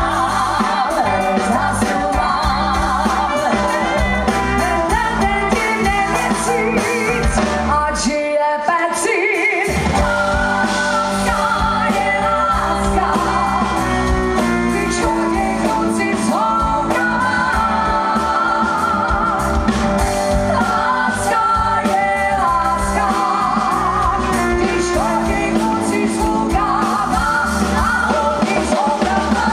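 Live pop-rock concert music: a female lead singer with a full band. The bass and drums drop out for about a second, around eight seconds in, then come back.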